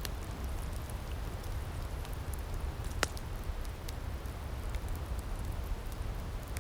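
Outdoor wood fire crackling: scattered sharp pops, one louder than the rest about three seconds in, over a steady low rumble.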